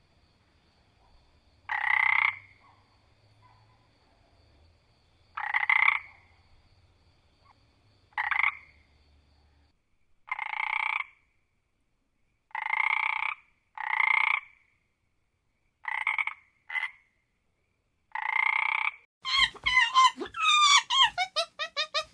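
An animal calling in short, repeated calls, about nine of them, each under a second and spaced one to three seconds apart. Near the end a different sound with fast-wavering pitch takes over.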